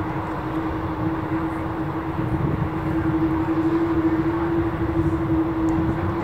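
Boeing 737-800 jet engines running: a steady droning hum over a low rumble. The hum edges slightly up in pitch and grows a little louder over the last few seconds.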